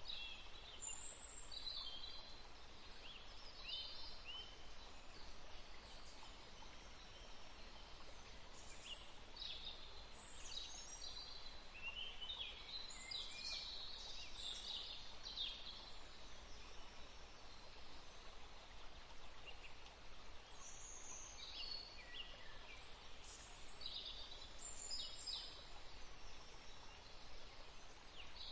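Songbirds chirping and trilling in short, high notes over a faint steady background hiss. The calls cluster thickly a little before halfway, pause briefly, then pick up again.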